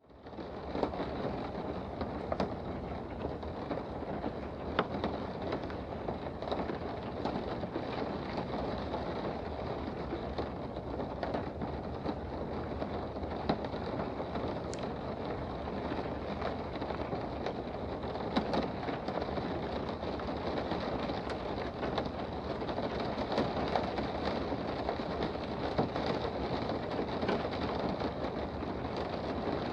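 Steady rain heard from indoors, a dense even patter with scattered sharper drips, fading in during the first second.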